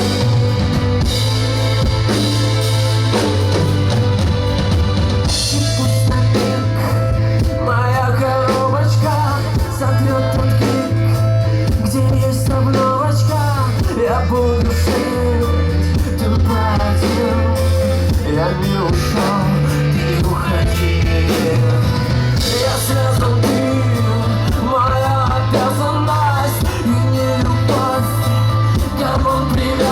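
Rock band playing live, with drum kit and bass guitar and a man singing in Russian; the vocal line comes in about eight seconds in.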